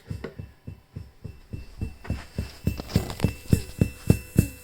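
Behringer MURF filter unit's output with the volume fully up, leaking a pulsing tick-thump in time with its step pattern, about three a second and growing louder, over a faint steady high whine. The owner takes it for a noisy internal clock bleeding into the audio and suspects the unit is faulty.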